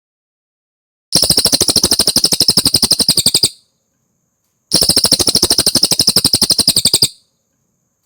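Cililin songbird singing two rapid trills, each a run of about fifteen quick high notes a second lasting around two and a half seconds, with a clean silence between them.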